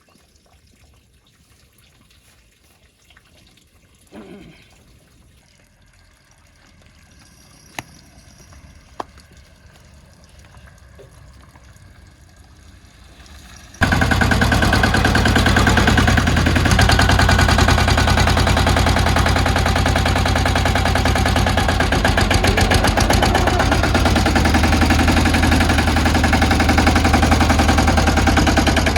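Quiet at first with two sharp clicks. Then, about halfway through, a small engine suddenly comes in loud, running steadily with a rapid knocking beat.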